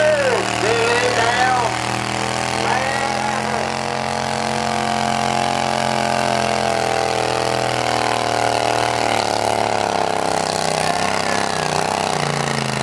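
A pulling lawn tractor's engine running steadily, its pitch sagging slightly about ten seconds in. Voices are heard over it near the start.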